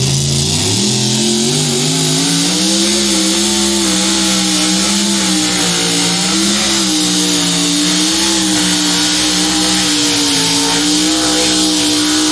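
Pulling tractor, a mini rod, running flat out under load down the track: the engine pitch climbs over the first couple of seconds after launch, then holds high with small rises and falls in RPM.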